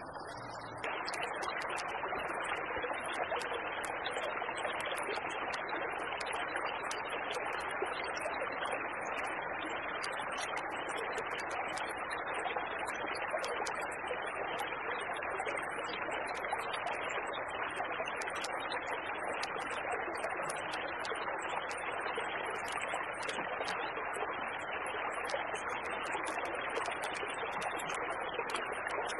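Small creek flowing steadily: an even rush of running water that comes up about a second in and holds, with faint scattered high ticks over it.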